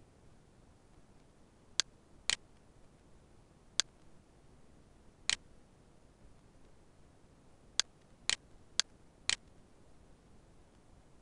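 Computer mouse buttons clicking: eight short, sharp clicks at irregular intervals, the last four in quick succession about half a second apart.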